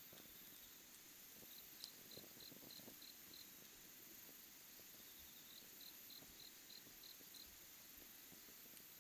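Faint cricket chirping in short, even pulses of about four a second, in two runs of a second or two each, over a quiet background.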